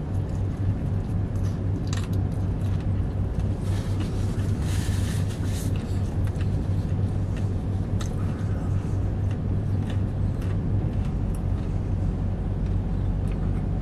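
Steady low hum of a car's idling engine heard inside the cabin, with scattered small clicks and smacks of someone chewing food.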